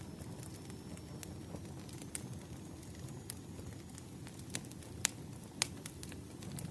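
Campfire crackling: a steady low rustle of burning wood with scattered sharp pops, the two loudest about five seconds in, half a second apart.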